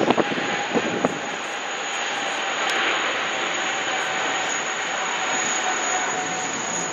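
Jet airliner engines running steadily: a broad roar with a steady high whine over it. A few short knocks come in the first second.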